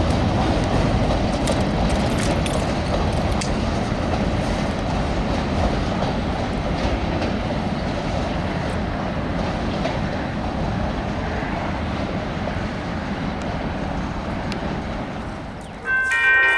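Train cars rolling past with a steady rumble and a few faint clicks, slowly fading. Near the end a chord of several steady tones sets in suddenly.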